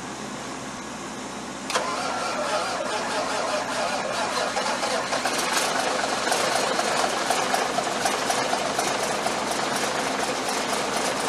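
855 cubic inch Big Cam IV Cummins diesel in a dump truck starting up cold after months of sitting. The engine catches suddenly a little under two seconds in, then runs steadily.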